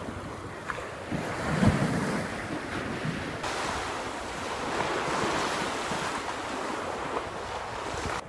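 Sea surf washing in, with wind buffeting the microphone in low thumps about a second or two in.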